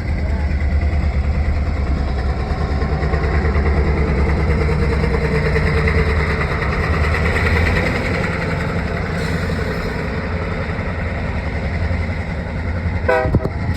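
Diesel locomotive engine running with a steady low rumble and an even throb, a little louder around the middle.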